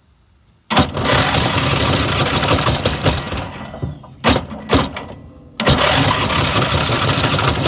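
Riding lawn mower engine being cranked by a hot-wired starter that bypasses a dead starter solenoid, with the choke held open. There are two long loud cranking bursts, the first about a second in and the second near six seconds, with two short taps between them as the wires are touched, and the engine tries to catch.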